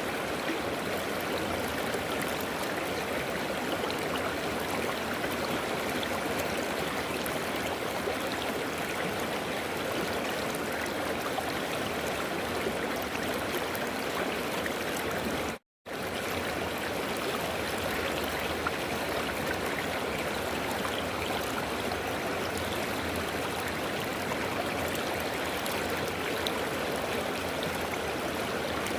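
River water flowing steadily over rocks, a continuous rushing and babbling. The sound cuts out for a split second about halfway through, then resumes.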